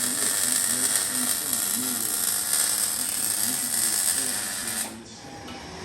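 A power tool running steadily, with a wavering mechanical whine, then cutting off suddenly about five seconds in.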